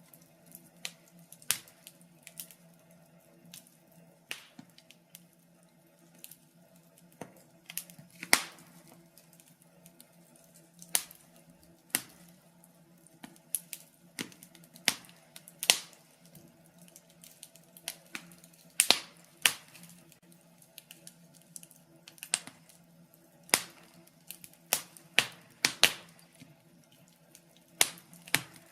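Log fire crackling: irregular sharp pops and snaps, some close together and some a second or more apart, over a faint steady low hum.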